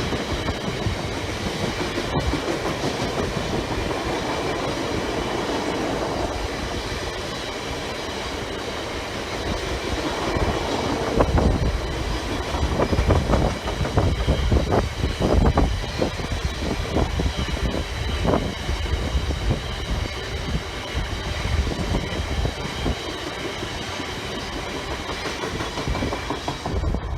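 Train passing close by on the line, a steady rumble with the wheels clacking over the rail joints, the clatter growing louder and busier from about eleven seconds in.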